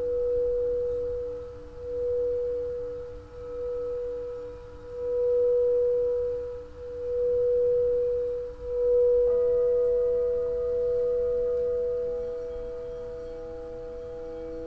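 Singing bowls ringing in long sustained tones. The main tone swells and fades in slow waves about every two seconds, and about nine seconds in another bowl joins with a higher tone, then a lower tone a few seconds later.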